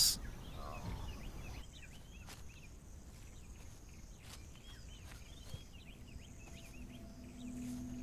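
Faint outdoor ambience of small birds chirping: many short, high, quick calls scattered throughout. A low steady hum comes in near the end.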